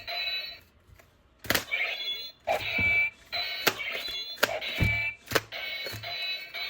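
Battery-powered toy gun's electronic sound effect, set off again and again: a sharp click, then a short burst of beeping, siren-like tones, about once a second after a brief pause near the start.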